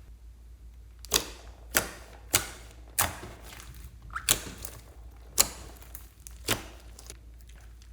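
Slime being pressed and worked by hand, giving about seven sharp, separate pops from trapped air, spaced roughly half a second to a second apart.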